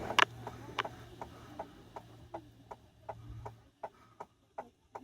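A car's indicator flasher clicking steadily, about two and a half clicks a second, over a faint low hum inside the cabin.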